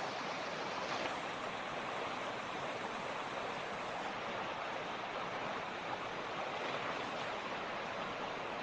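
Mountain creek running: a steady, even rush of fast water over rocks.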